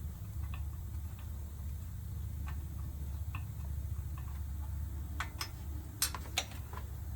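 Front disc brake rotor of a Lectric XP e-bike ticking lightly against the brake pad about once per wheel turn as the front wheel spins: the slightly bent rotor rubbing at one spot. Several louder, sharper clicks come near the end, over a steady low hum.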